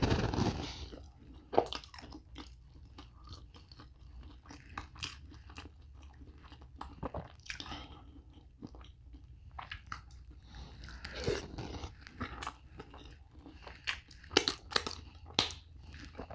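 Close-miked mouth sounds of a person eating by hand: chewing food dipped in seafood-boil butter sauce, with scattered short wet clicks and smacks. They come louder and closer together near the end.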